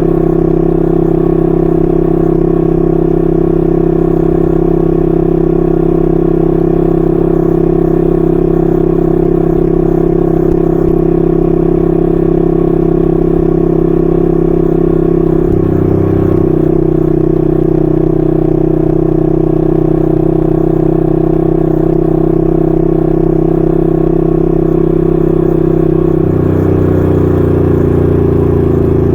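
Exhaust note of a 1968 Honda Dream CL250's 250cc parallel-twin engine through its stock muffler, running steadily at cruising speed. The note shifts briefly about halfway through and changes again near the end.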